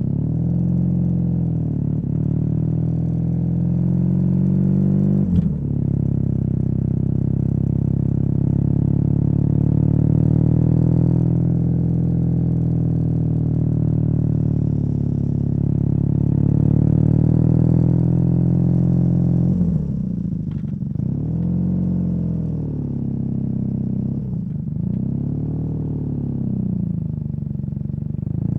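BMW R nineT boxer twin with a Competition Werkes slip-on exhaust, running under way. The engine note drops briefly with a sharp click about five seconds in, as at a gear change, holds steady for a long stretch, then rises and falls several times near the end as the throttle is opened and closed.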